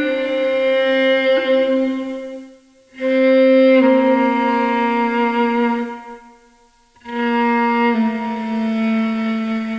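Viola being bowed in three long, slow phrases of about three seconds each, separated by short pauses. In each phrase the note steps down slightly partway through.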